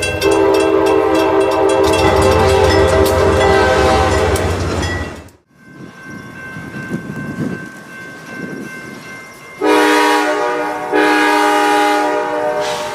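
Diesel locomotive air horn sounding a long chord over the engine's heavy rumble, cut off suddenly about five seconds in. After a quieter stretch, the horn sounds twice more near the end, two long blasts with a brief gap between them.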